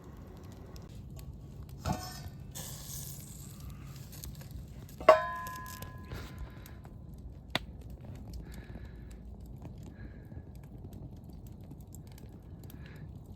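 Metal camp cookware and utensils clinking: a knock about two seconds in, then a sharp metallic strike about five seconds in that rings for over a second, and a single click a little later, over a low steady background.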